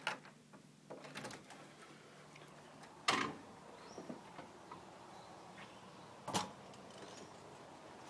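A house door being unlatched and opened: a few soft clicks, then two sharper knocks, about three seconds in and again about six seconds in.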